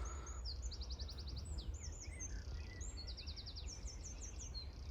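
Small birds chirping, with several quick high trills of rapidly repeated notes between short rising and falling chirps, over a low steady outdoor rumble.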